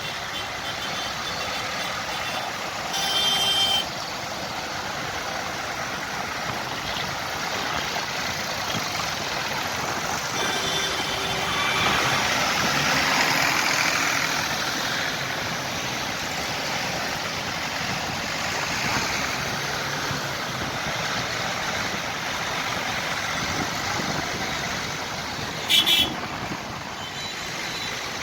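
Tractor engines running steadily, with a swell in the sound about halfway through and two short, louder sounds, one about three seconds in and one near the end.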